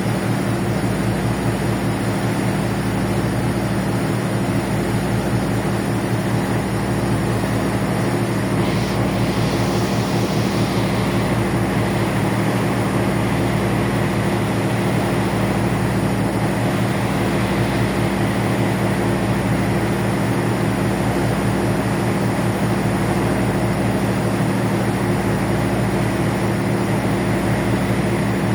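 A ferry's engines running with a steady low drone of several held tones, heard on board. A brief hiss rises over it about nine seconds in.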